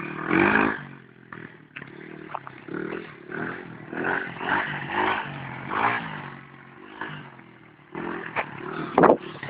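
Dirt bike engine revving up and down several times as it is ridden, with a short loud knock near the end.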